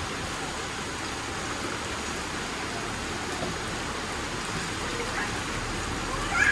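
Heavy rain falling in strong wind, a steady hiss, with a brief rising sound near the end.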